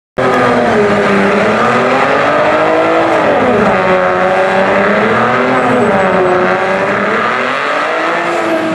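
Cadillac ATS-V's twin-turbo V6 revving hard in a drag-strip burnout, the revs swinging up and down several times as the rear tyres spin. The sound cuts in suddenly just after the start.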